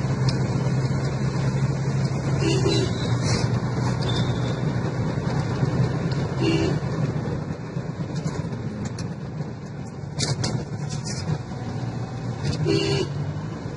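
Toyota Corona sedan being driven on a road: a steady low engine hum under road noise. A few brief, sharp higher-pitched sounds cut in from time to time.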